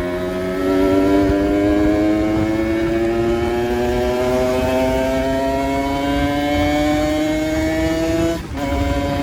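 Kawasaki Ninja RR's single-cylinder two-stroke engine running under load, its pitch rising slowly and steadily. About eight and a half seconds in it cuts out for a moment, then carries on at a slightly lower pitch.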